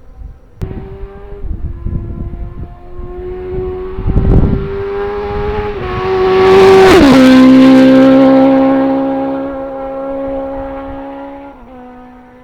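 Honda CBR1100XX Super Blackbird's inline-four engine, through a custom stainless exhaust with high-rise cans, riding by. It grows louder as it approaches, drops in pitch as it passes about seven seconds in, then fades away.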